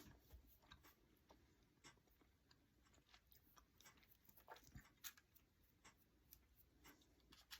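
Near silence, with faint, scattered light taps and scratchy strokes of a paintbrush working orange acrylic paint onto a small craft pumpkin.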